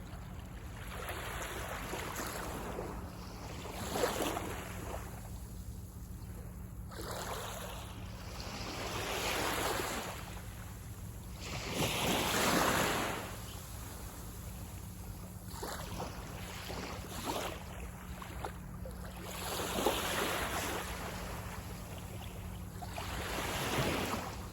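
Sea waves breaking and washing up a beach, each wave rising and falling in a wash of noise every few seconds, the largest about halfway through.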